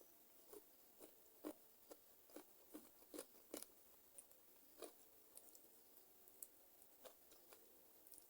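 Close-miked chewing of chicken feet: soft, irregular wet clicks and small crunches, about two a second, thinning out after the first half.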